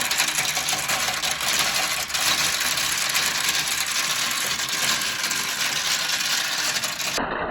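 Many marbles rolling and clattering down a plastic Kumikumi Slope marble run track, a steady dense rattle of small clicks. Near the end it cuts abruptly to a duller-sounding stretch of the same kind of rolling clatter.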